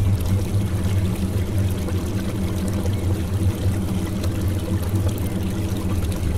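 Foamy, polluted water gushing from a drain outlet in a concrete wall and pouring into the froth below: a steady, low rush of falling water.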